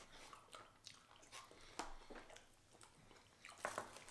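Faint chewing and soft wet mouth clicks of people eating gooey mac and cheese, with a few scattered small snaps.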